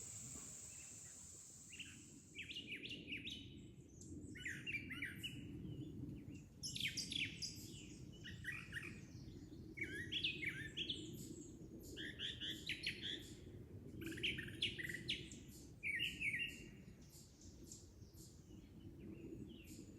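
A songbird singing a long, continuous run of short, varied phrases, with brief pauses between them, over a low steady rumble.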